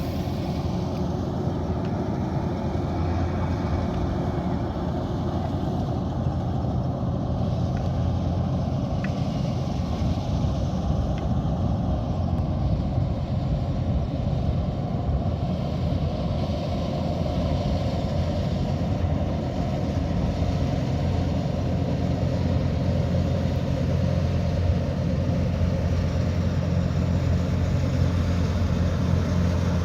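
Kubota DC108X combine harvester running steadily while harvesting rice: a constant low diesel engine drone with the machine's mechanical noise over it.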